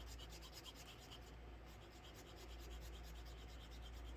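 Faint, rapid strokes of a small metal jewelry file rubbing across cured UV resin, smoothing a rough, pointy edge.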